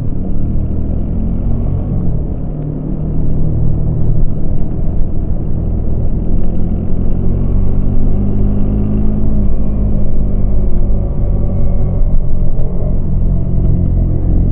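Yamaha MT-25's parallel-twin engine running under load while riding. The throttle eases off about two seconds in, then opens again and the engine note climbs.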